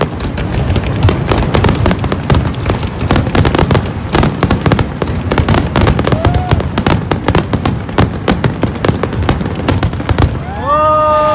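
Fireworks going off in rapid succession, a dense run of crackling bangs. Near the end a long held pitched sound, such as a shout or horn, rises over the bangs for about a second.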